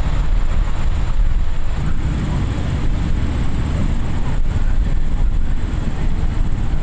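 Steady low rumble of highway traffic and vehicle engines, loudest in the deep bass.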